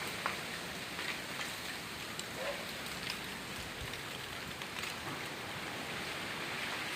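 Rain falling steadily, a continuous hiss with scattered sharp ticks of individual drops.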